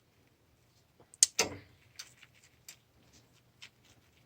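Small metal parts clicking and tapping as screws and a washer are fitted during valve reassembly: one sharp click about a second in with a brief scrape after it, then a few lighter ticks.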